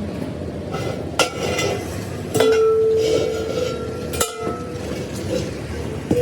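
Hammer strikes on a steel truck wheel rim: three sharp metal blows, each leaving a ringing tone, the second ringing on for almost two seconds.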